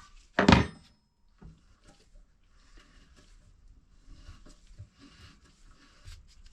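Faint handling noise of the pressure washer's small fuel tap and filter screen being turned over in the hands: light rustles and scattered small ticks.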